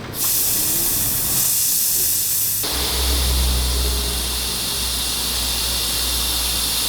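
Loud, steady hiss of a pressurised jet that starts abruptly. A little before three seconds in, the hiss shifts lower and a deep steady rumble joins it.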